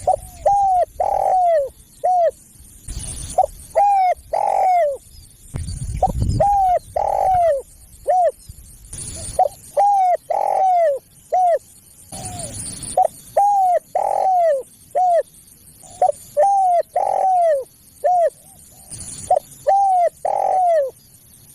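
Spotted dove (tekukur) cooing: repeated phrases of several coos, each note bending down in pitch, with short pauses between phrases. A faint low rumble fills some of the pauses.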